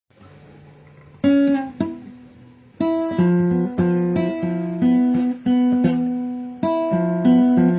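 Acoustic guitar music: a slow instrumental intro that opens softly, then plucked chords ring out from about a second in, each one struck and left to fade.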